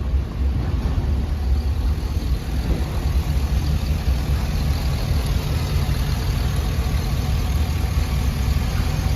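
2005 Chevrolet SSR's 6.0-litre LS2 V8 idling steadily with a deep, even rumble.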